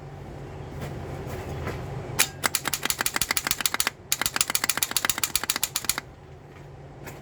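Failing starter on a 2002 Toyota Solara clattering in two rapid runs of about ten clicks a second, the first about two seconds in and the second just after four seconds, as it struggles to turn the engine over.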